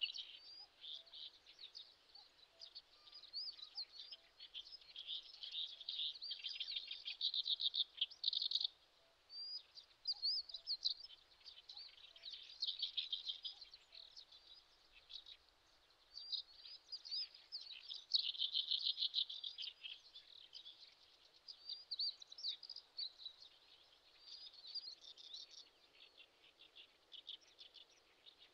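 Small birds calling and singing: high chirps, short whistles and fast trills come in overlapping bouts, with a brief lull about nine seconds in.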